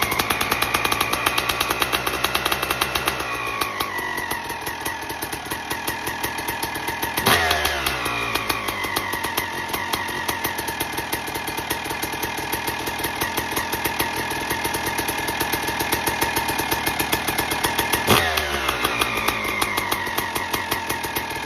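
2002 Suzuki RM250's single-cylinder two-stroke engine running on its first start after a top-end rebuild with a fresh piston. It settles from a higher idle about three seconds in, then is blipped sharply twice, about 7 and 18 seconds in, each time falling back to idle.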